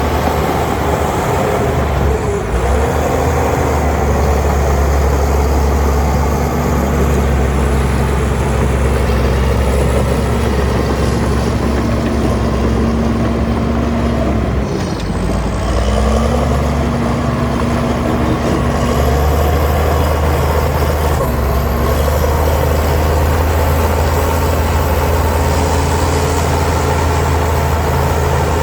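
Heavy diesel engine of earthmoving machinery running hard under load. Its pitch sags briefly about halfway through, then climbs back, and a faint high whine wavers above it.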